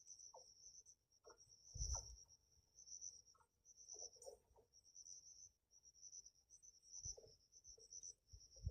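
Faint insect chirping, like a cricket: a high-pitched trill in quick pulses, grouped in short runs. There are a few soft low thumps, the loudest about two seconds in.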